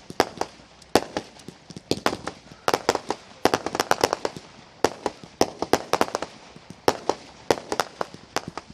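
Fireworks bursting in rapid, irregular sharp cracks and bangs, several a second, often bunched into crackling clusters.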